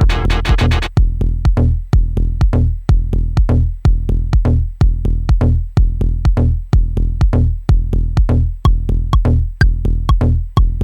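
Dub techno groove from a Maschine drum machine: a steady kick drum about twice a second with bass and ticking hi-hats. A sustained chord texture drops out about a second in, and short pitched blips come in near the end.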